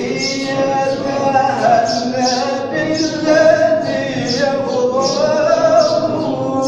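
Sufi devotional singing (inshad) at a dhikr gathering: a man's voice holds long, ornamented, sliding melodic lines over voices chanting together. A short, hissy accent recurs about twice a second.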